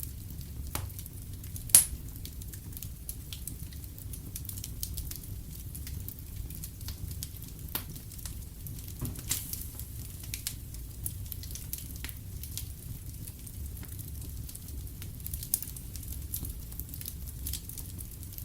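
Wood fire in a fireplace crackling, with scattered pops and one sharp, loud snap about two seconds in, over a steady low rumble.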